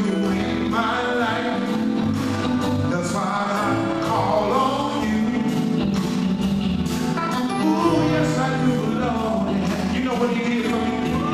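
Live gospel band with electric guitar, bass and drums playing, with singing over a steady beat.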